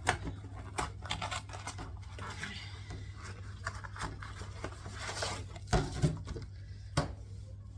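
A frozen pizza's packaging being opened by hand: scratching, tearing and rustling of cardboard and plastic, with three louder knocks in the second half.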